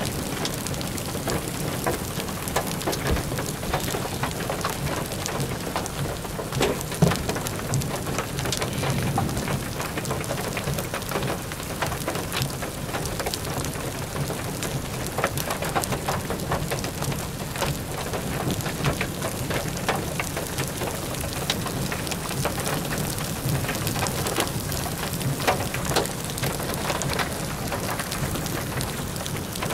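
Rain hitting a car's roof and windows, heard from inside the car: a steady hiss with many sharp individual drop impacts ticking through it.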